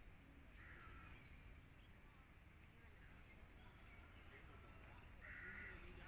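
Faint outdoor ambience with a bird calling twice: a short call about a second in and a louder one near the end.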